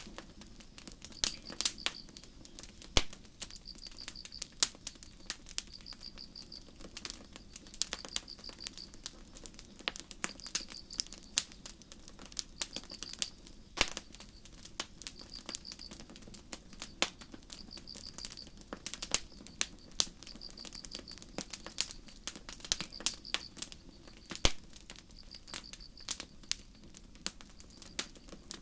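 Campfire crackling, with irregular sharp pops and snaps of burning wood, while a cricket chirps in short high trills about every two seconds.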